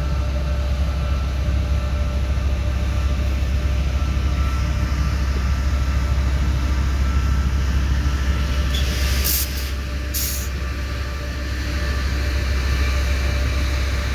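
Empty sugar hopper wagons of a freight train rolling past: a steady heavy rumble of wheels on rail, with faint steady ringing tones. Two brief high hissing bursts come about nine and ten seconds in.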